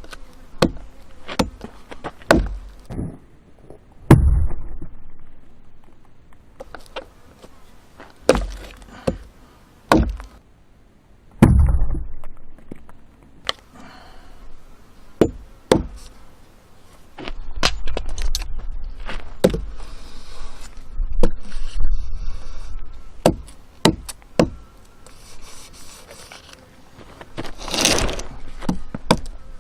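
Repeated sharp chopping strikes of a hand blade biting into firewood, irregularly spaced, some landing with a heavy thud. A longer rasping noise comes near the end.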